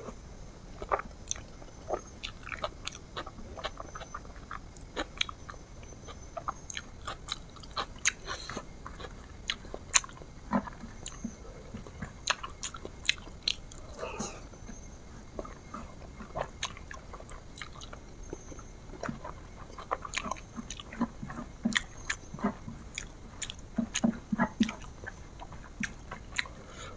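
A person eating close to the microphone, biting and chewing with many short, sharp crunchy clicks.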